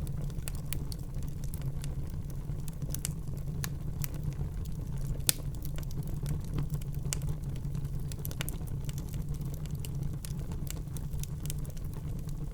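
Fire burning in a fireplace: a steady low rumble with frequent sharp crackles and pops, one louder pop about five seconds in.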